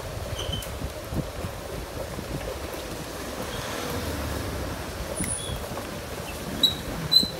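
A four-wheel-drive vehicle's engine running low as it drives slowly along a muddy dirt track, with wind rumbling on the microphone. A few short high chirps cut through, two sharp ones near the end.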